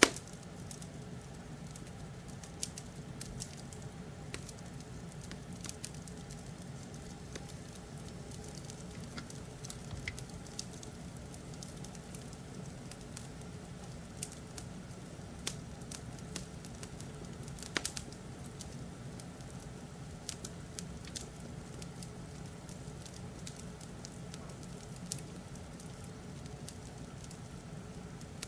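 Log fire crackling in a fireplace: irregular sharp pops and snaps over a steady low rumble.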